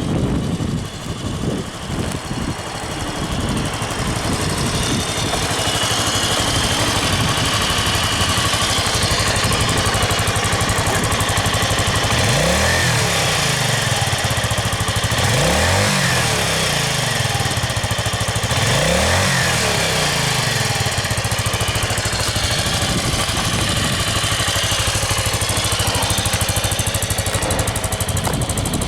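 Kawasaki Estrella 250's single-cylinder engine idling through its stock exhaust, with three short throttle blips around the middle, each rising and falling back to idle.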